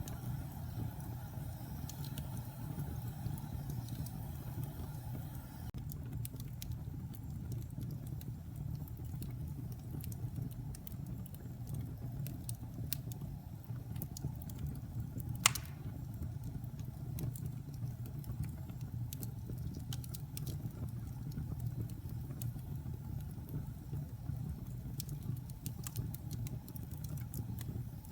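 Wood logs burning in a fireplace: a steady low roar of the flames with scattered small crackles, and one loud, sharp pop about halfway through.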